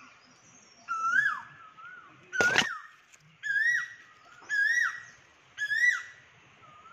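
A bird calling loudly over and over, about once a second: each call a clear note that rises and then drops sharply, the calls creeping slightly higher in pitch. A sharp knock comes about two and a half seconds in.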